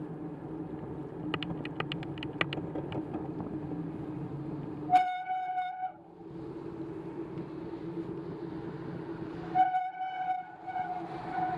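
Two long horn blasts, the first about a second long and the second somewhat longer, both on one steady pitch, over a steady low hum. A quick run of clicks comes between one and three seconds in.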